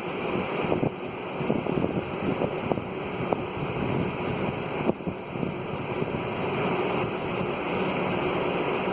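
Steady rushing of storm wind on a phone microphone, with a few faint ticks.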